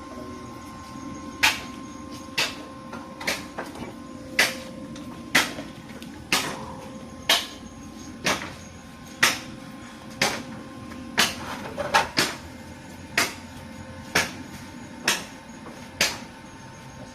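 Hammer blows struck at a steady pace of about one a second, with three quick strikes together about twelve seconds in.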